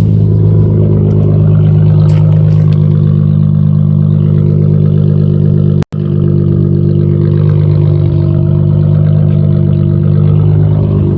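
Dodge Challenger 3.6 L Pentastar V6 running at a steady speed through an exhaust with the resonator and muffler deleted, loud and deep. The sound cuts out for an instant about six seconds in.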